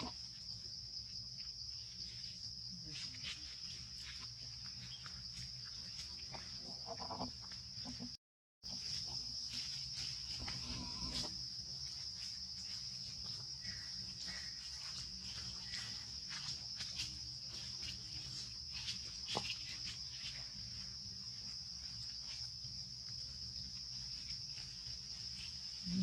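A steady high-pitched drone of insects, with scattered faint clicks over it. The sound cuts out completely for a moment about eight seconds in.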